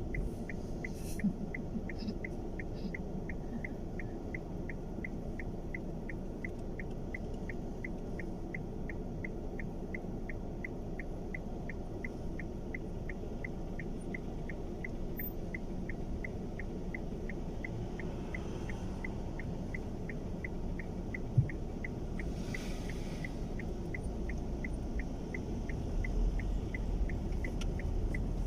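Car's turn-signal indicator ticking steadily, about two to three ticks a second, over the low hum of the car's cabin and engine. The hum grows louder near the end.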